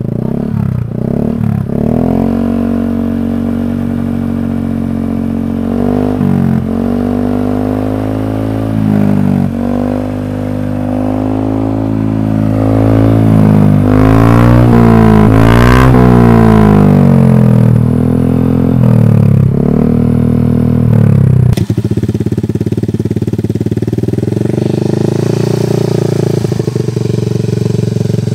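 A Honda Vario 125 scooter's single-cylinder four-stroke engine is heard through an aftermarket CLD C3 oval racing exhaust with the dB killer removed. It is revved again and again in blips and longer rises and falls, then drops to a steady idle about 21 seconds in.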